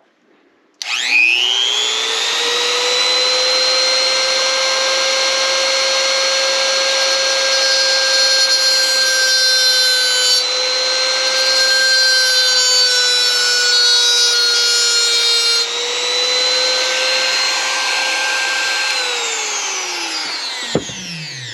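High-speed rotary tool whining as it spins up about a second in and runs steadily while grinding a slot into a stripped Phillips screw head so a flathead driver can turn it. It winds down near the end.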